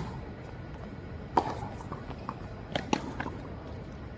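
Tennis ball struck and bouncing on a hard court, a few sharp pops over a second apart, the loudest about a second and a half in and a quick pair near three seconds in, with lighter shoe scuffs between them.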